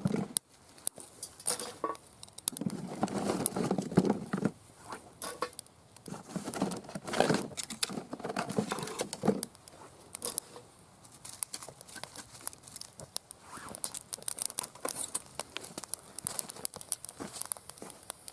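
Rustling and crinkling of campfire kindling being handled, with many sharp clicks and crackles throughout and louder bursts of rustling a few seconds in and again near the middle.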